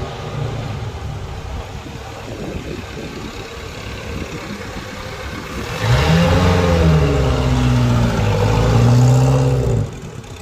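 Alta classic car's engine running, then revved hard about six seconds in, its pitch rising and falling over several seconds before it drops back near the end.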